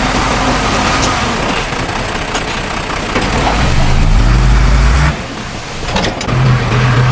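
Heavy diesel engines of earthmoving machinery running; about three and a half seconds in one engine's note climbs and strengthens under load, then cuts away abruptly about five seconds in before the engine sound picks up again, with a few short clanks.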